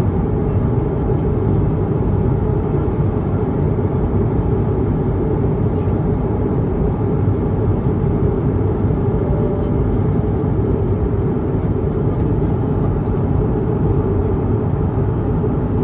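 Steady in-flight cabin noise of an Airbus A220-300 heard from a window seat: an even, deep rumble of its Pratt & Whitney PW1500G geared turbofans and rushing air, with a faint thin high tone over it.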